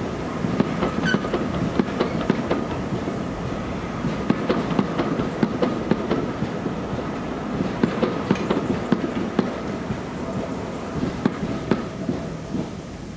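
Heritage passenger coaches rolling slowly past, their wheels clicking and knocking over the rail joints, fading near the end as the last coach goes by.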